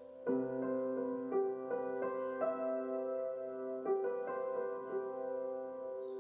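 Background music: a soft, slow piano melody with sustained chords.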